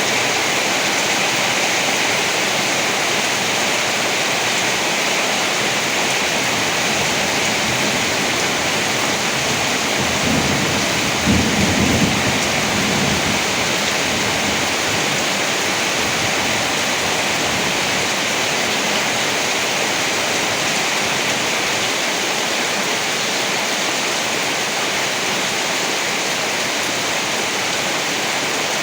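Heavy, steady rain, with one low roll of thunder about ten seconds in that swells and dies away over roughly three seconds.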